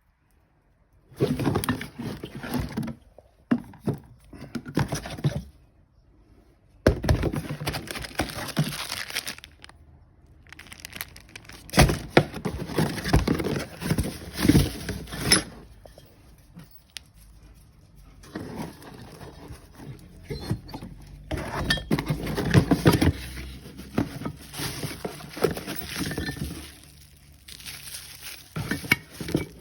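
Packaging of an air suspension kit being handled and unpacked: rustling and crinkling in irregular bursts, with sharp knocks as parts are moved and set down, and short pauses in between.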